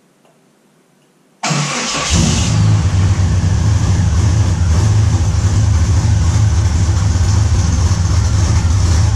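1988 Jeep Wrangler YJ's cammed 4.2-litre straight-six starting about a second and a half in, catching quickly, then idling loudly with a choppy cam lope.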